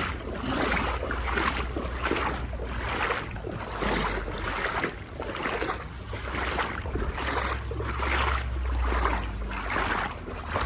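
Legs wading through knee-deep floodwater: a swish and slosh with each stride, about one and a half strides a second, over a low rumble of wind on the microphone.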